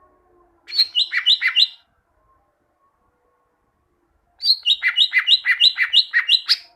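Green leafbird (cucak ijo) singing: two quick bursts of sharp notes that alternate high and low, a short burst of about five notes about a second in and a longer one of about ten notes in the second half.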